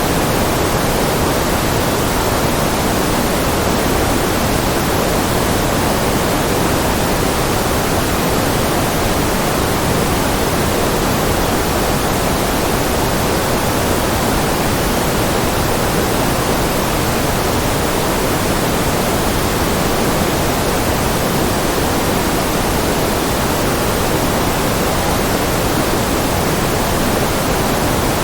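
Generated noise (a white-noise track): a steady, unchanging hiss with its weight in the lower and middle range, closer to pink noise.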